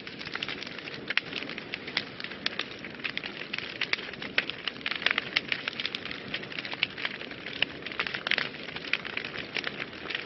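Wood fire burning in a fireplace, crackling with many irregular sharp pops over a steady hiss.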